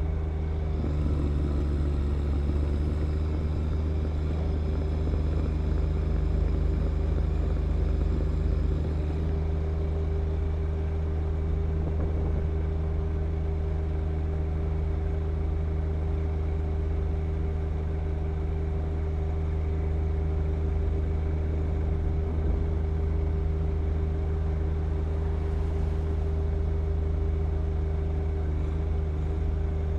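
John Deere 1025R compact tractor's three-cylinder diesel engine running steadily at an even speed. A faint high whine rides over it for roughly the first nine seconds.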